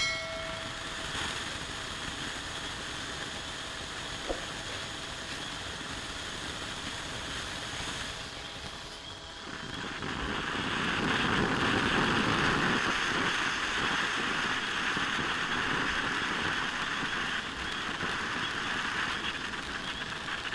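Multi-vent firework fountain spraying with a steady hiss. About nine seconds in it turns louder and denser, with crackling effects.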